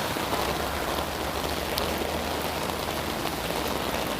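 Heavy rain falling steadily, with a few faint drop ticks.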